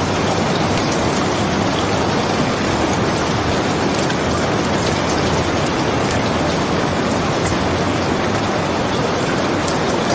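Steady rain falling, an even hiss that does not change, with a few faint ticks scattered through it.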